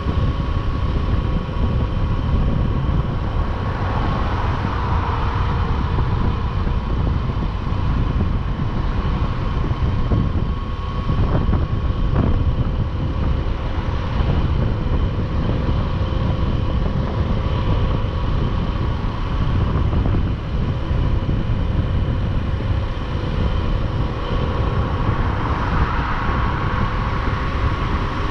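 Motorcycle running steadily at cruising speed, a dense low rumble with road and wind rush and a steady whine above it. Two short knocks come about a third of the way through.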